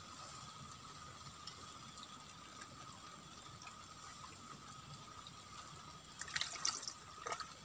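Water splashing and dripping in two short bursts about six and seven seconds in, the first the louder, over a steady faint hiss and a constant high-pitched tone.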